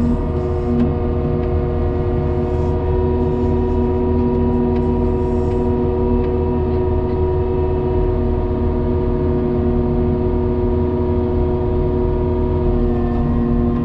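Engine of a snow plowing vehicle running steadily at one constant speed, with a low rumble underneath.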